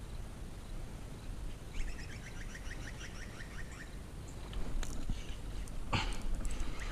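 A bird calling: a rapid run of about a dozen short, falling notes lasting about two seconds, over a faint low background hum. A short sudden noise comes about six seconds in.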